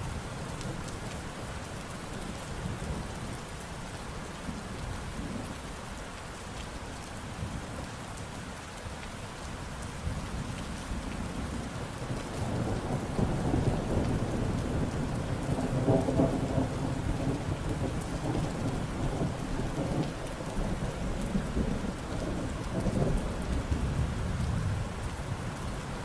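Steady rain falling in a thunderstorm, with a long, deep roll of thunder that swells about halfway through and fades out near the end.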